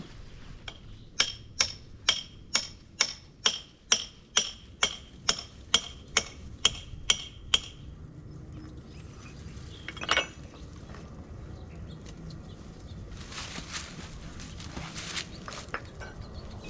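Hammer striking a steel chisel about fifteen times, roughly two blows a second, each with a metallic ring, driving under a patio paver to break it loose. Later comes one more knock and a stretch of rough scraping-like noise.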